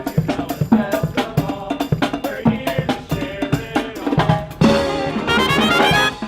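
Live brass marching band with drums playing: a steady drum beat under brass notes, then about four and a half seconds in, a held chord with a fast rising run of notes.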